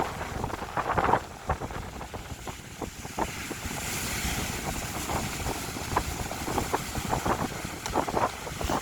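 Wind buffeting the microphone over the wash of surf on the beach, with a wave hissing in about four seconds in.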